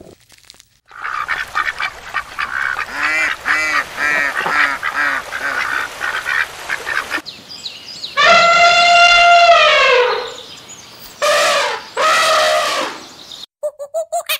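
A run of animal calls: many short honking calls for several seconds, then one long, loud call that falls in pitch at its end, two shorter falling calls, and rapid repeated calls near the end.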